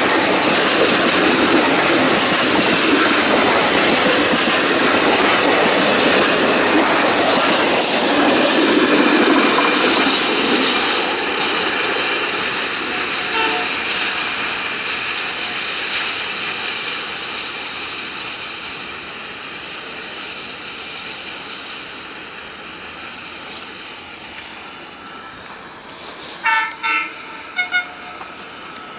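Freight train wagons rolling along the rails, a loud steady rumble and clatter of wheels that slowly fades as the train draws away. Near the end a train horn sounds several short blasts.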